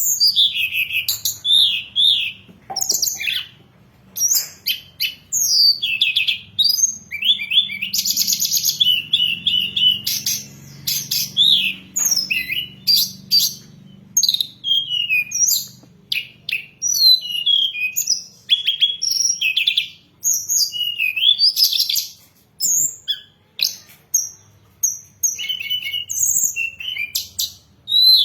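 Tledekan gunung singing a long, varied song of high chirps, quick whistled slurs and a few rapid trills, delivered in short phrases with brief pauses between them. This is the bird's full song as used for masteran tutoring and to provoke other tledekan into singing.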